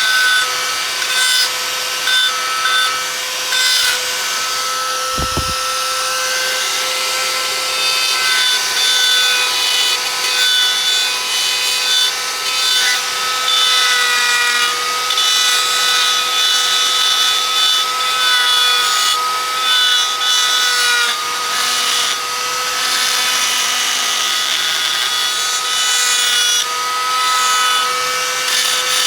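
A power tool running steadily with a high motor whine while working wood, with scraping and rubbing noise of the cut over it.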